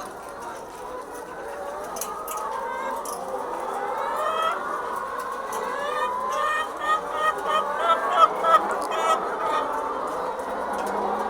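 A flock of chickens clucking and calling over one another, with a run of rapid, louder cackles in the second half. The commotion is typical of hens agitated by an unusual disturbance.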